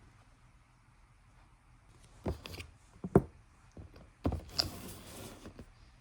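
Handling of a 1:200 diecast airliner model and its packaging: a few sharp plastic clicks and knocks starting about two seconds in, the loudest a second later, then a short stretch of rustling.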